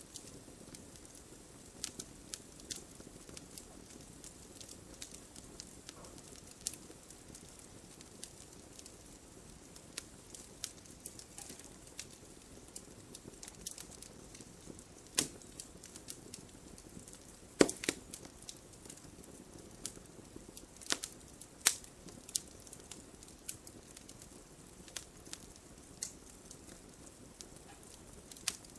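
Campfire burning, the wood crackling and popping at irregular moments over a low steady hiss, with a few louder pops past the middle.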